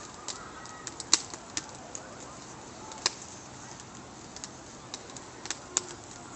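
Wood campfire crackling: irregular sharp pops and snaps, with louder ones about a second in, about three seconds in and twice near the end.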